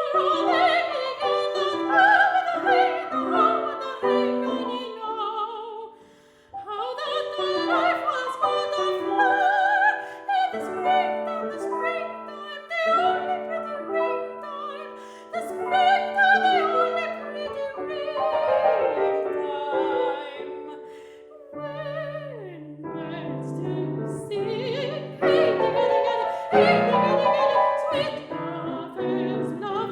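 Soprano singing with vibrato over piano accompaniment, a classical art song, with a brief pause about six seconds in.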